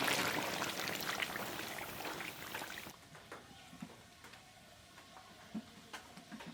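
A steady watery hiss, like pouring water, that cuts off suddenly about three seconds in, followed by faint scattered clicks and light knocks.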